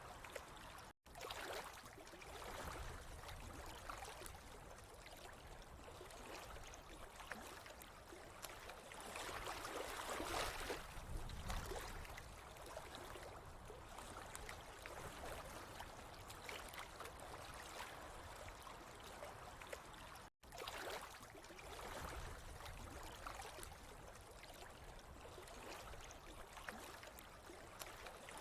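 Water trickling and flowing steadily, with gentle swells; the sound cuts out for an instant twice, about a second in and about twenty seconds in.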